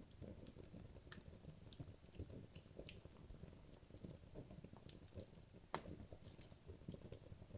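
Wood logs burning in a fireplace: a faint crackle of small, irregular pops over a soft flutter of flame, with one sharper pop about three-quarters of the way through.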